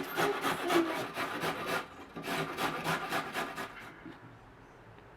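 Rapid, rhythmic scraping strokes, about six a second, that stop a little under four seconds in.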